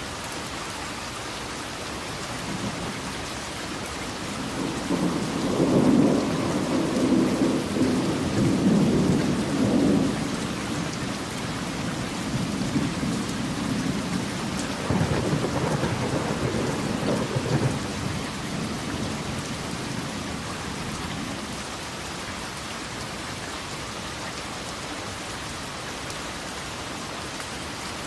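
Steady heavy rain with thunder rolling in twice: a long low rumble swells about four seconds in, and a second roll follows around fifteen seconds, both fading back into the rain.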